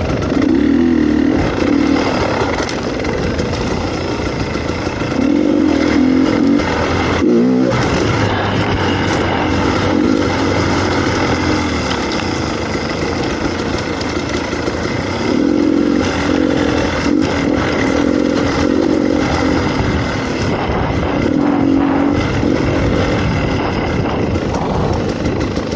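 Dirt bike engine running while being ridden, its note swelling with the throttle several times and briefly falling away about seven seconds in.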